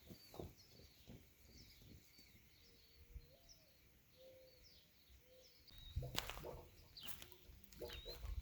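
Faint bird chirps in the background, with a few knocks and rustles of handling in the last couple of seconds.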